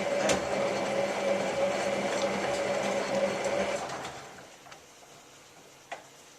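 Hotpoint 9534A washing machine's drum motor whirring steadily as it turns the drum in the main wash, then winding down and stopping about four seconds in. A few faint clicks follow.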